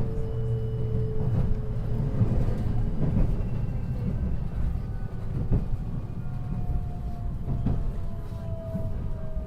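Interior running sound of a 521 series electric multiple unit: a low rail rumble with a few sharp knocks from the wheels. Motor and inverter whine sits over it, slowly falling in pitch.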